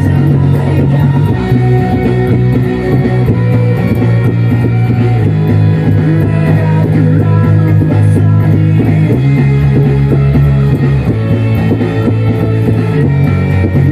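Rock music with electric guitar and drums and an electric bass played along, the bass holding long low notes that change every two seconds or so.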